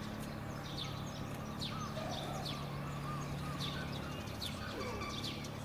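Small birds chirping, short high falling chirps repeated every second or so, over a steady low hum.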